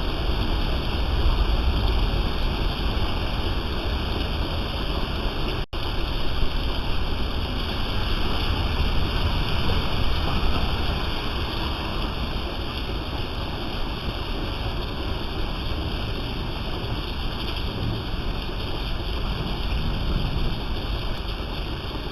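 Rain falling steadily: an even, unbroken hiss, with a split-second dropout in the audio about six seconds in.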